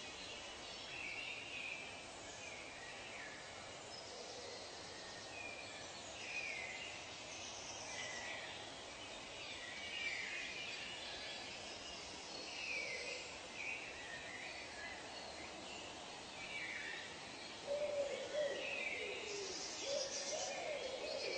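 Wild birds calling: many short chirps and whistles scattered over a faint steady hiss, with lower hooting calls that waver in pitch joining in near the end.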